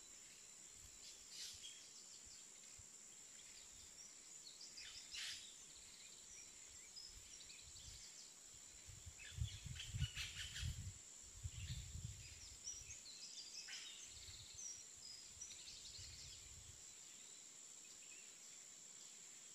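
Faint outdoor ambience: scattered short bird chirps over a steady high-pitched whine, with a few low thumps about nine to twelve seconds in.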